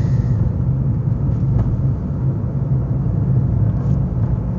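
A car on the move: steady low rumble of road and engine noise.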